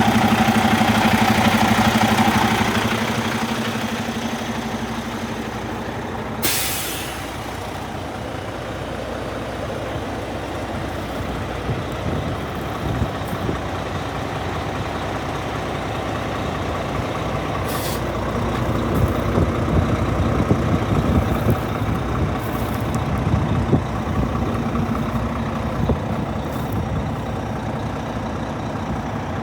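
Cummins X15 diesel engine of a Volvo VNL truck tractor running, louder for the first couple of seconds and then settling down. A sharp hiss of released air comes about six seconds in, and a shorter one past halfway.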